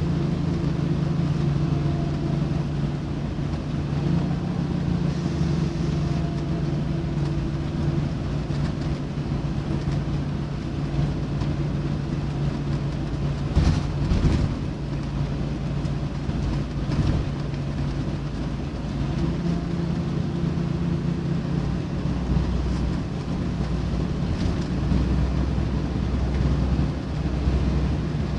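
Scania D9C nine-litre five-cylinder diesel of a Scania K94UB bus running steadily as the bus drives, its hum fading about a third of the way in and strengthening again later with a deeper rumble. A few knocks sound about halfway through.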